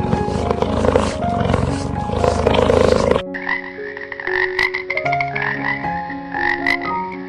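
An animal calling in rough, pulsing bursts. About three seconds in it cuts off suddenly, and background music follows with a short call repeated over it.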